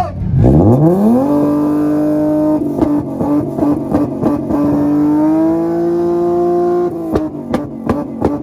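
A tuned car engine revved hard in a rev battle. It climbs fast to a steady held pitch, breaks into a choppy stutter with sharp bangs, climbs and holds again, then drops off into a quick run of pops and bangs.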